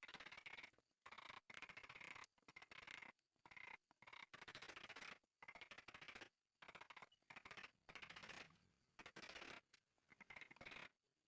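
A hand tool working wood in short repeated strokes, about a dozen, each a rapid run of fine scratchy clicks with brief pauses between.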